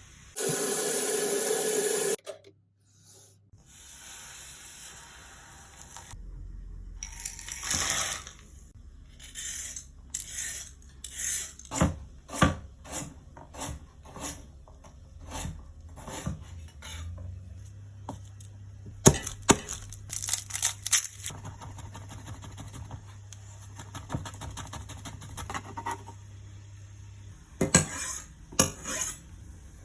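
Kitchenware clattering: pots, pans and cutlery knocked and clinked together in many separate sharp knocks. A loud steady noise lasts about two seconds near the start.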